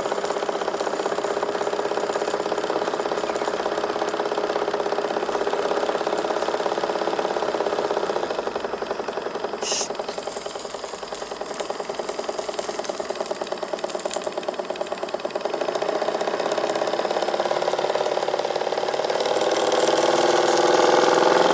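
Anton Cristal model steam engine in a model steam launch running steadily under steam with a fast, even beat. It eases off and quietens a little about ten seconds in, with a brief high hiss, then picks up and grows louder near the end.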